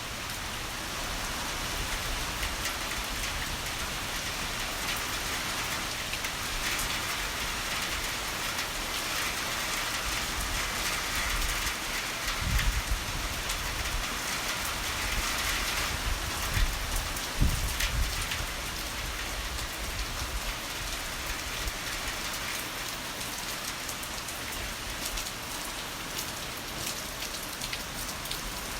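Heavy rain pouring steadily, a little heavier through the middle. Two short, low thumps stand out, about twelve and seventeen seconds in.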